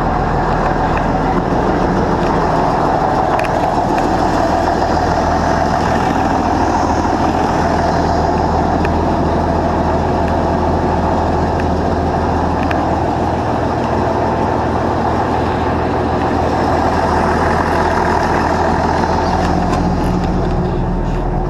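Carbureted vehicle engine idling steadily while it warms up after a cold start.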